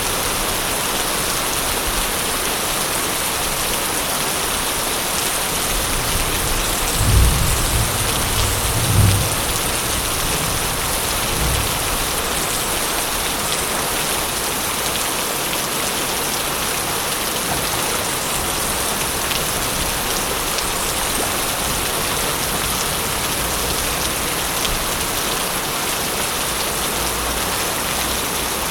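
Steady heavy rain, with a low roll of thunder about seven to nine seconds in and a fainter rumble shortly after.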